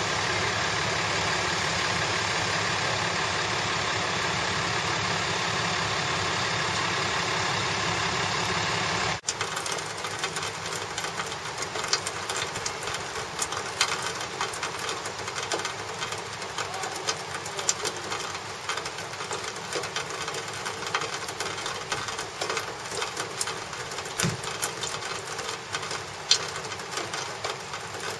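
Tow truck's engine running steadily. About nine seconds in the sound breaks off abruptly and gives way to a lower, rattling mechanical clatter with irregular clicks as the truck works to pull the car out.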